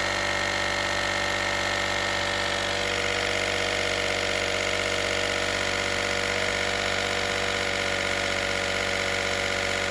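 Small 12-volt air compressor built into a Harbor Freight Viking jump pack running steadily while inflating a car tire at about 30 psi. Its pitch shifts slightly about three seconds in.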